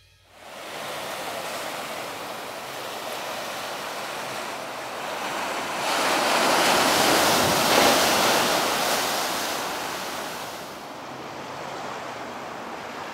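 Ocean surf breaking on the shore: a steady wash of noise that swells to a louder rush about six seconds in, then ebbs away.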